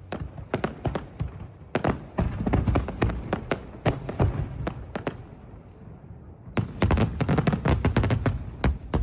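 Fireworks going off in rapid volleys: many sharp bangs and crackles over a low rumble, a dense barrage for the first five seconds, a lull, then a second flurry of bangs near the end.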